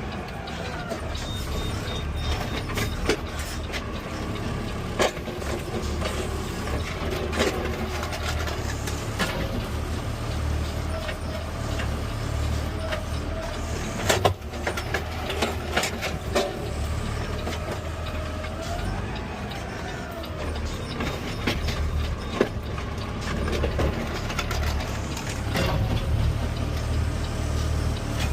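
CNG Peterbilt 520 automated side-loader garbage truck running: a steady low engine rumble with a whine that rises and falls a couple of times. Scattered clanks and knocks come through, the loudest about halfway.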